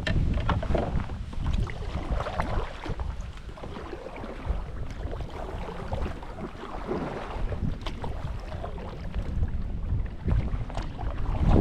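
Wind buffeting the microphone in gusts, with water lapping and small knocks against a kayak hull.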